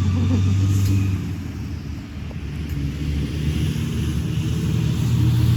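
A big truck's engine running as it passes, a low steady drone that eases off about two seconds in and then builds again.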